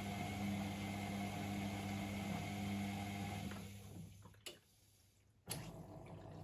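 Privileg Sensation 952 S top-loader washing machine running with a steady electric motor hum that winds down about four seconds in. A click comes at the stop, then a second of near silence, and another click.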